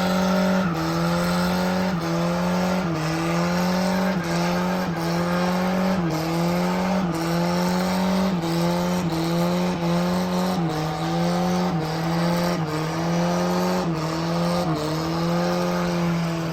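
Car engine held at high revs during a burnout, its pitch dipping and climbing back about every two-thirds of a second, over the hiss of spinning, squealing tyres.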